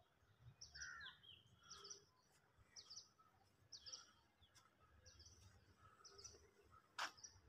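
Faint birdsong: a bird repeating a short high chirp about once a second, with a single sharp click near the end.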